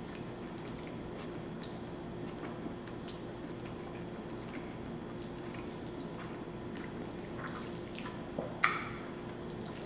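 Close-miked wet chewing and mouth sounds of someone eating cheesy spaghetti casserole, with scattered small smacks and clicks, a sharper one about three seconds in and another near the end. A faint steady hum runs underneath.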